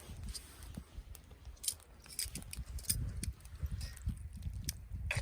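A person chewing grilled meat close to the microphone, soft irregular mouth sounds, with scattered sharp clicks throughout.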